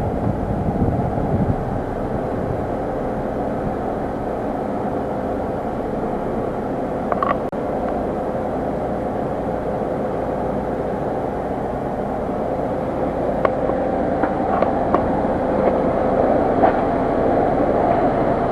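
Ford EcoSport running with its air conditioning on: a steady drone with a faint steady hum in it. A few light clicks and taps come about seven seconds in and again in the last few seconds.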